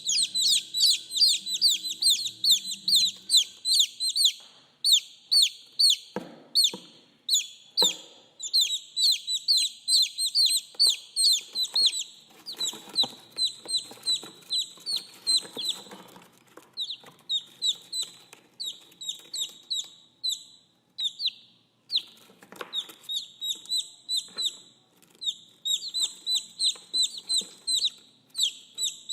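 Baby chicks peeping: a fast run of short, high-pitched, falling peeps, several a second, with brief pauses, and a few softer, lower sounds in between.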